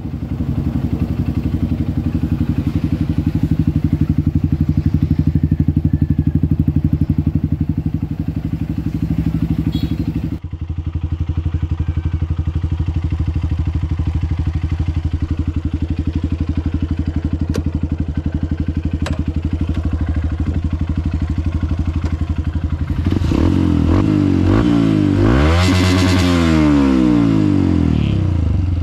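Honda CRF150L's single-cylinder four-stroke engine with an open exhaust pipe, running steadily at high revs on a top-speed run. There is a brief break about ten seconds in. A louder swell with sweeping pitch comes near the end.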